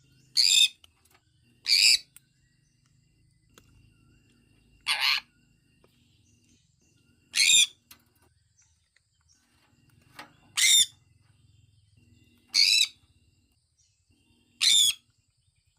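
Sun conure calling: seven short, high-pitched calls, one every one to three seconds.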